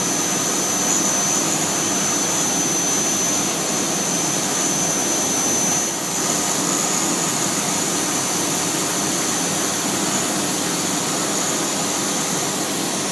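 CNC router spindle running loud and steady with a thin high whine, its 1/4-inch end mill cutting a square pocket a tenth of an inch deep per pass, with the vacuum hold-down pump running underneath. The noise dips briefly about halfway through.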